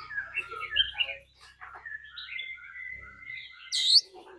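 Oriental magpie-robin singing its challenge song: a run of varied clear whistled notes, then a long held whistle and a loud, sharp rising note near the end.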